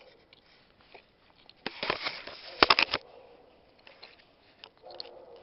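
Handling noise while getting out a match: a rough scratching rub about two seconds in, followed by a quick run of sharp clicks.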